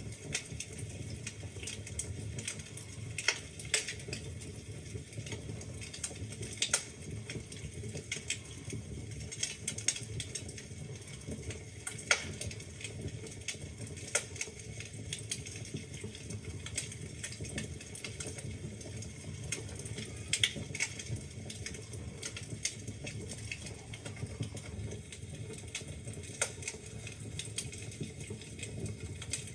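Wood fire crackling in a fireplace: a steady low rumble of flame with irregular sharp pops and snaps of burning logs, a few louder than the rest.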